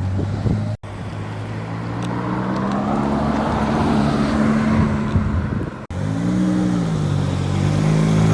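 Ferrari engines running and accelerating past, cut abruptly twice as clips change. Near the end an engine revs up and falls back in pitch, then rises again.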